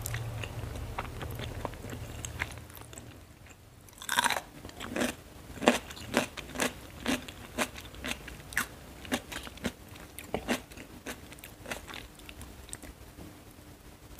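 Close-miked chewing of a mouthful of mie goreng (Indonesian fried noodles). Crisp crunching bites come about twice a second, starting about four seconds in and thinning out near the end.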